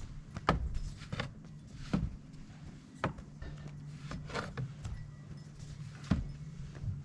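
Footsteps crunching through snow: about half a dozen irregular steps, over a steady low hum.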